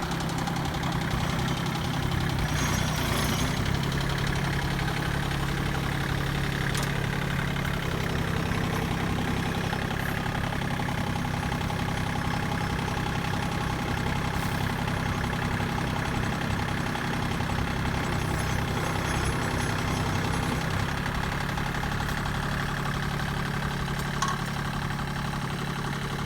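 Mahindra eMax 22 subcompact tractor's diesel engine running steadily at raised throttle while its loader and backhoe hydraulics are worked. The pitch drops slightly about five seconds in and comes back up around twenty-one seconds, with a few faint clicks along the way.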